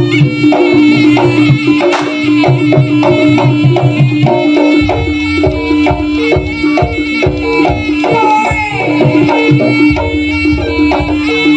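Javanese jaranan ensemble music: hand drums (kendang) keep a quick, even beat under a steady held tone and a higher melody line.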